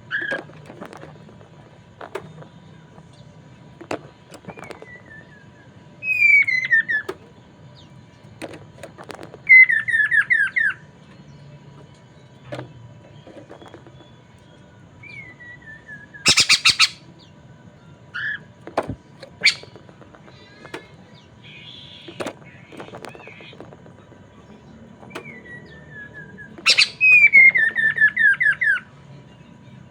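Poksay mandarin (Chinese hwamei) singing in loud bursts of rapid falling whistled notes, four phrases in all, the longest near the end, with short sharp calls and clicks between phrases.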